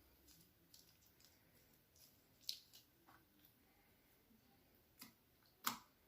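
Slime being handled: a few scattered, faint sticky clicks and squishes. The louder ones come about two and a half seconds in and again near the end.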